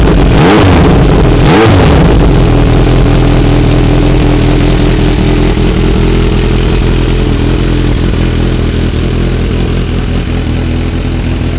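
Kawasaki ZRX1200R inline-four engine with its stock silencer removed, leaving only the header pipe with its catalyst: blipped twice in quick revs near the start, then settling into a steady, loud idle.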